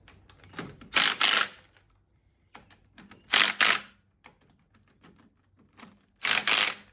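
Impact wrench driving fork bolts tight in three short bursts of rapid hammering, about a second in, around three and a half seconds in, and near the end, with light clicks between.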